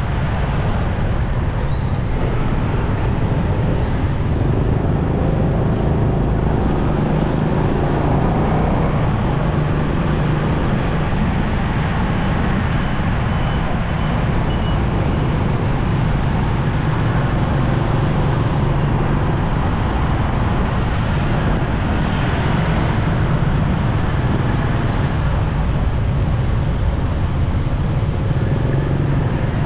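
Motorcycle riding steadily through road traffic: a continuous engine and road rumble, with the noise of other vehicles around it.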